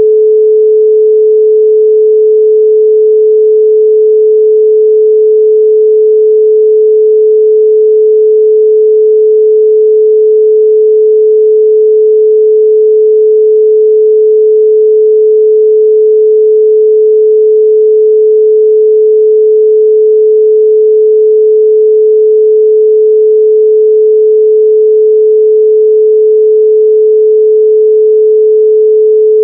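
A 432 Hz pure sine tone, held steady and loud with no change in pitch or level.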